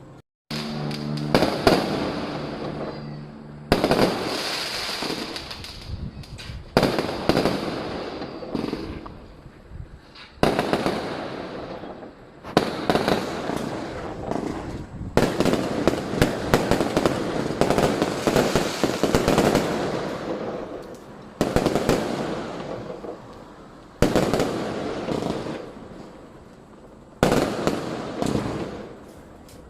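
Fireworks going off: a sharp bang every two to four seconds, each followed by dense crackling that fades away, with the bursts running into one another.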